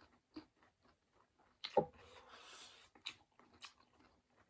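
Close-miked mouth sounds of someone chewing a mouthful of food wrapped in a cabbage leaf: scattered wet clicks and crunches, with one louder crunch just before two seconds in.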